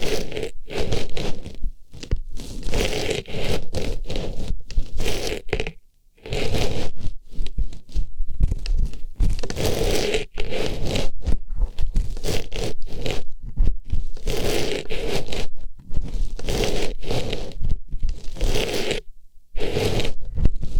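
An artificial flower rustling and scraping as it is pushed into and rubbed around a microphone's ear, in close ear-cleaning strokes, with two brief pauses.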